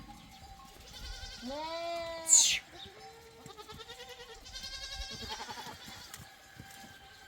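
Goats bleating: one long bleat about a second and a half in, then shorter wavering calls. The loudest moment is a brief, sharp high chirp just after two seconds in.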